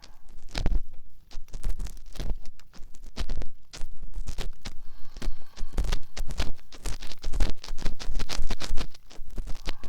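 Ear-cleaning ASMR sounds: an ear pick scratching and rubbing irregularly right up against a binaural microphone's ear.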